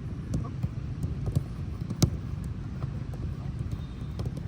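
Football being kicked on a training pitch: several short thuds of ball strikes and footsteps, with one sharp, loud kick about two seconds in, over a low steady rumble.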